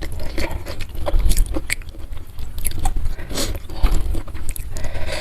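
Close-miked chewing and biting of food, with irregular wet crackles and clicks of the mouth and teeth.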